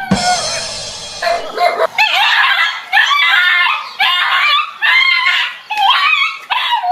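An animal giving a run of loud, high-pitched cries, about one a second, after a brief hiss at the start.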